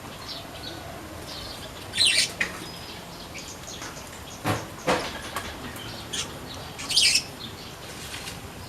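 Weaver birds in an aviary: scattered short, high chirps with several brief bursts of wing flapping, the loudest about two seconds in, around the middle and about seven seconds in.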